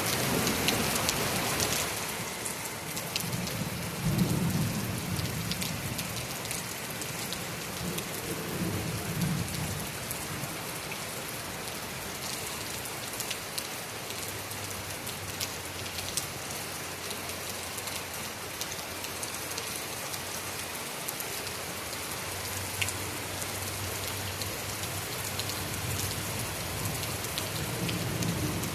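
Heavy rain falling steadily. Low rolls of thunder come about four seconds in, again around nine seconds, and once more near the end.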